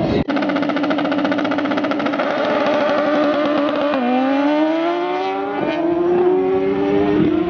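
A drag-racing engine held at high revs with a fast stuttering pulse. About four seconds in its pitch dips, then climbs steadily as it accelerates.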